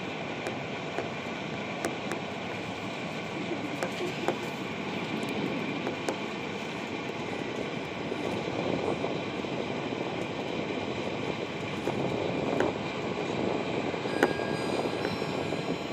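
Moving passenger train heard from inside the carriage: steady running noise of wheels on the track, with a few faint clicks, growing a little louder near the end.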